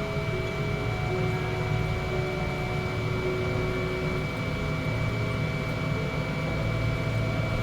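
Steady cabin hum inside a Boeing 777-200 airliner: a low rumble of ventilation and engine noise under a constant high whine.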